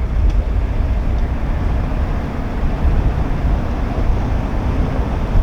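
Steady low rumble of a narrowboat under way, its diesel engine running at cruising speed.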